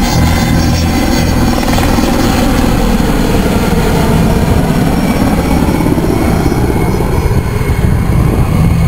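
IAR 330M Puma helicopter in flight, the steady loud noise of its four-bladed main rotor and twin Turbomeca turboshaft engines.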